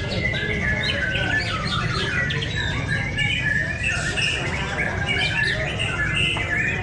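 Several songbirds chirping and singing over one another in quick, overlapping phrases, with a steady low rumble beneath.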